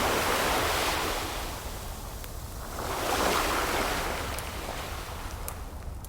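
Ocean waves washing ashore, two swells in a row, the first right at the start and the second about three seconds in, each rising and fading off. Faint crackles from a wood fire pop here and there through them.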